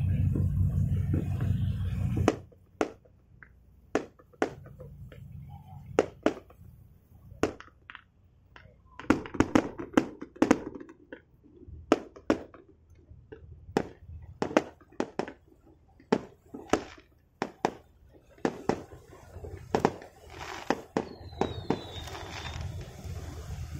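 Firecrackers going off in irregular sharp pops, single cracks and quick clusters, after a steady engine rumble cuts off about two seconds in.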